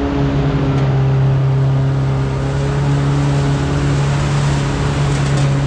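Off-road vehicle engine running at steady, low revs while crawling along a trail.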